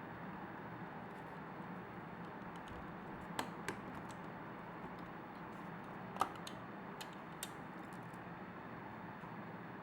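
A handful of light, sharp clicks of small hard parts or tools being handled, over a steady background hiss.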